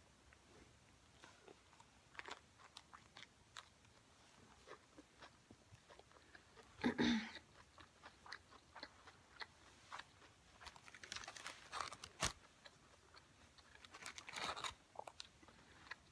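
Close-up chewing of a fresh spring roll (rice paper, lettuce, shrimp and chicken): soft, wet mouth sounds with scattered small crunches and clicks, and one louder moment about seven seconds in.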